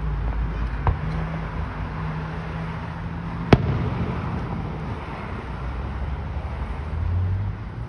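Fireworks going off, with two sharp bangs about two and a half seconds apart; the second is the louder. A steady low rumble runs underneath.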